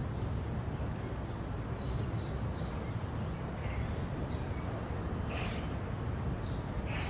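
Outdoor ambience: a steady low traffic rumble with short bird chirps scattered through it, several in quick clusters.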